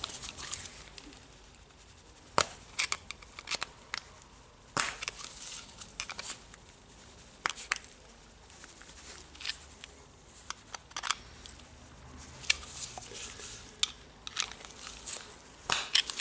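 Irregular sharp metal clicks and scrapes of a screwdriver working a steel spring ring along a rotary hammer part toward its groove.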